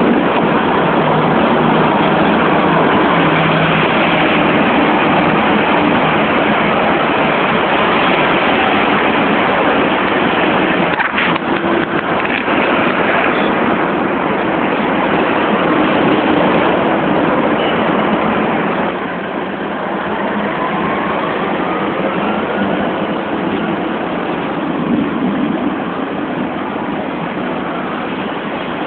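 Hong Kong double-decker tram running along the street, a loud steady noise of wheels, motor and surrounding traffic. A sharp click comes about eleven seconds in. About two-thirds of the way through the sound drops somewhat and a faint rising whine follows.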